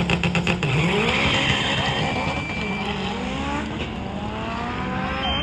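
Drag-racing car engine pulsing rapidly at high revs on the line, then launching about half a second in, revs climbing in several rising sweeps through the gear changes as it pulls away.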